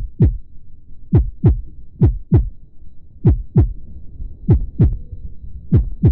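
Heartbeat sound effect: six slow double thumps in a lub-dub rhythm, about one beat every 1.2 seconds, each thump deep and dropping in pitch, over a faint low hum.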